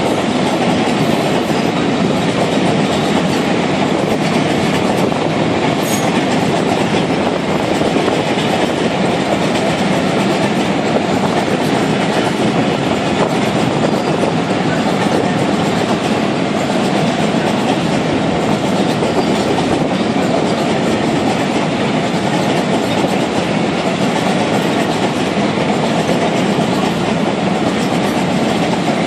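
A freight train of loaded oil tank wagons rolling past at close range: a loud, steady rumble of steel wheels running on the rails.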